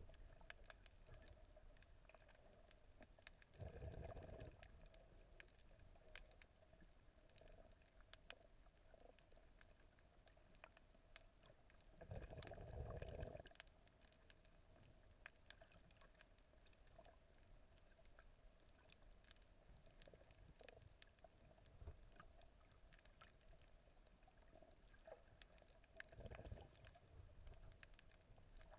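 Faint water sounds while snorkelling: a low background with scattered faint clicks, and three louder rushes of water about 4 seconds in, around 12 to 13 seconds in, and near the end.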